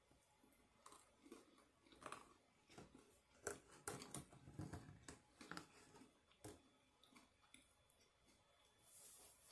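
A person chewing and biting food close to the microphone: quiet wet mouth sounds with many short crackling clicks, busiest in the middle.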